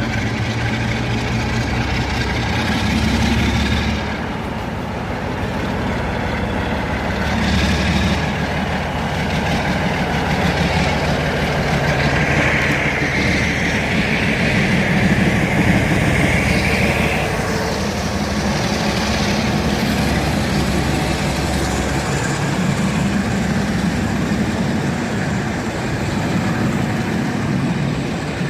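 Sulzer twelve-cylinder diesel engine of a British Rail Class 47 locomotive running, a steady low throb that swells and eases. A higher hiss stands out for a few seconds around the middle.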